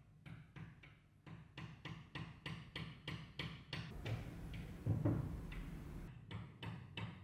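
A hand tool worked in quick, regular strokes, about three a second. The strokes pause for a couple of seconds a little past halfway, then resume.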